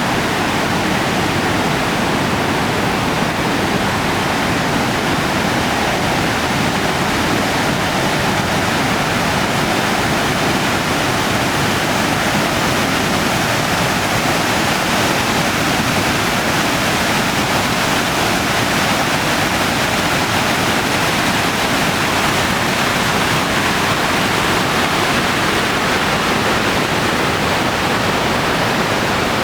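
Sogi Falls, a broad waterfall about 210 m wide, its water crashing down in a steady, unbroken rush.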